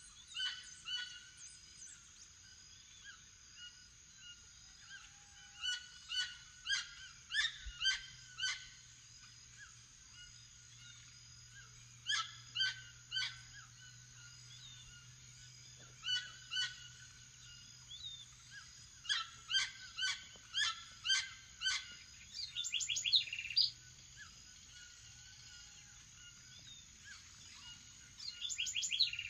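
Toucans calling in runs of four to six sharp, repeated yelps about half a second apart, over a steady high-pitched background drone. Other birds chirp between the runs, and a fast rattling trill comes in near the end.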